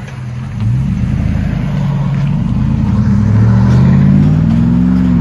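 2009 Chevy Silverado 1500's 5.3-litre V8 through a true dual exhaust with Borla Pro XS and Magnaflow mufflers, heard from inside the cab as the truck accelerates. The engine note climbs steadily, then drops at an upshift near the end.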